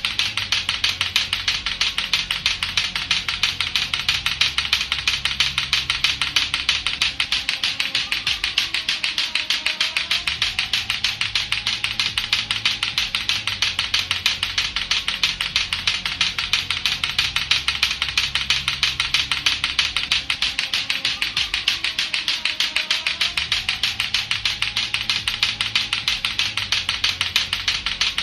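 Latto-latto clacker toy, two hard plastic balls on a string knocking together in rapid, steady clacking that does not let up. Faint music plays underneath.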